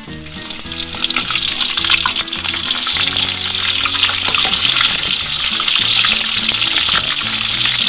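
Flour-battered fish deep-frying in hot oil: a steady, dense crackling sizzle that grows louder over the first two seconds or so.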